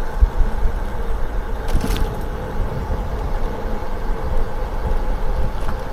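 Wind rumbling on the microphone of an e-bike moving fast downhill, with a steady whine and road noise underneath. There is a short click a little under two seconds in.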